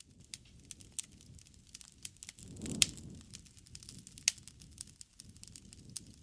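Wood fire burning: irregular sharp crackles and pops over a low soft rumble of the flames, with a brief swell of the rumble and the loudest pops a little before halfway.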